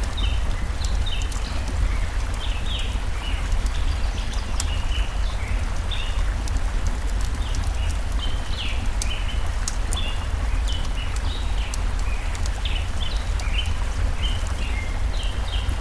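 Steady rush of a flowing stream with a deep low rumble underneath, small birds chirping in short repeated notes throughout, and occasional sharp crackles and pops of a wood campfire.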